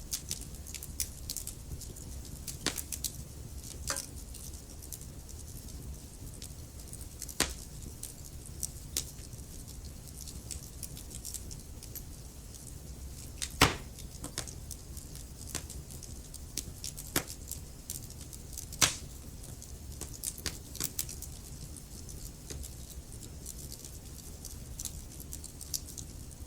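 Wood fire crackling: irregular sharp pops and snaps over a low steady hiss and rumble of burning, with the loudest pops about halfway through and again a few seconds later.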